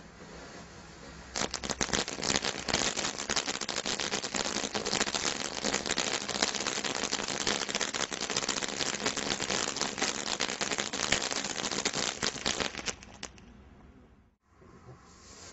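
Firework crackling: a dense, rapid run of sharp pops and cracks that starts about a second in and cuts off suddenly near the end.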